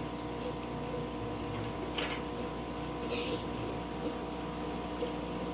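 A steady hum with two brief swishes of water about two and three seconds in, as a fish net is worked through an aquarium.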